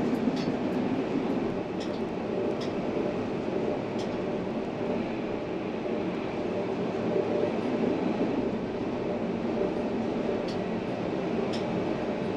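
Tram running along its line: a steady rolling rumble with a faint constant hum and a few light clicks.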